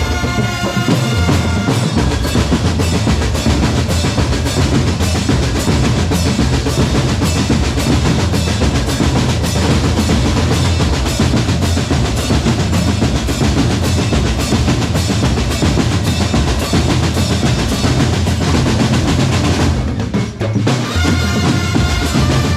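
Drum corps percussion playing: dense, fast snare rolls over bass drum beats, with a short break about twenty seconds in before the drumming picks up again.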